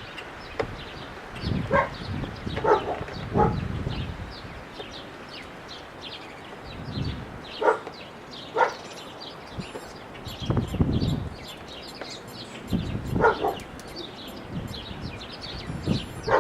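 A dog barking several times, in short groups of two or three barks, with wind gusts rumbling on the microphone.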